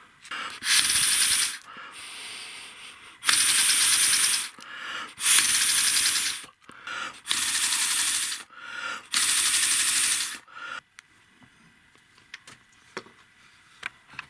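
Air hissing through a small 3D-printed compressed-air model engine in five bursts of about a second each, with a fast ticking of the engine turning over inside each burst. Faint clicks follow near the end as it runs down.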